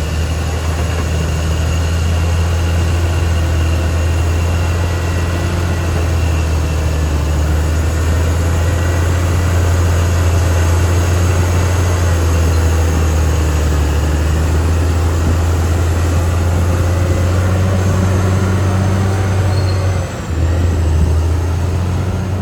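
Caterpillar D6R XL bulldozer's diesel engine running steadily under work, a deep, even drone with a brief drop about twenty seconds in.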